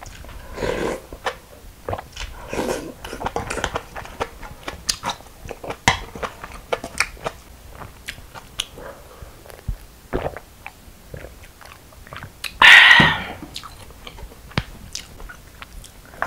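Close-miked chewing and crunching of raw young radish (yeolmu) bibimbap, with wet mouth sounds and small crisp crackles. About thirteen seconds in there is one louder noise lasting about half a second.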